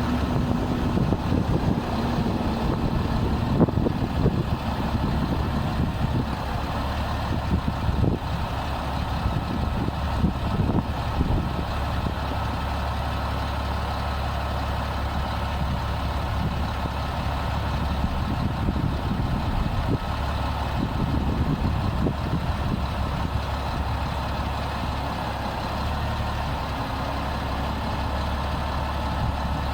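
Diesel engine of a Freightliner M2 106 conveyor truck running steadily, with scattered knocks and clatter in the first dozen seconds.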